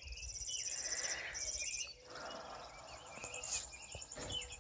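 Insects trilling in a fast-pulsing high trill that comes and goes in stretches, with birds chirping over it.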